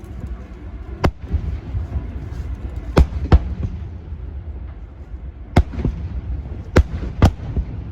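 Fireworks going off: six sharp bangs at irregular gaps, some coming in close pairs, over a steady low rumble.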